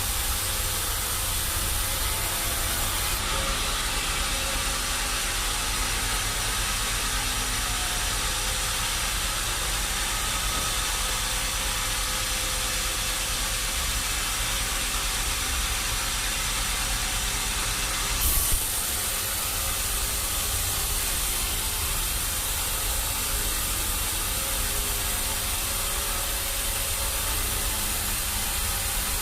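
Sawmill machinery running with a steady hissing noise and no clear rhythm; about two-thirds of the way through, the sound shifts abruptly, as at a cut, and carries on just as steadily.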